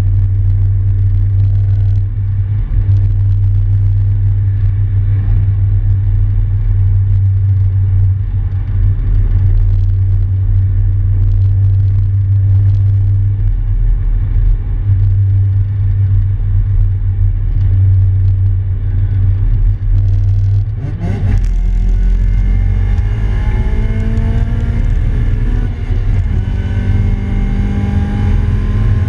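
The swapped-in Integra GSR four-cylinder VTEC engine of a 1994 Honda Civic hatchback, heard from inside the cabin. It drones steadily while cruising, then after about twenty seconds the revs jump sharply and the engine climbs steadily in pitch as the car accelerates.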